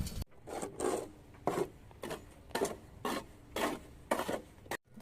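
Rhythmic scraping or rubbing strokes, about two a second, like something rasped back and forth over a rough surface.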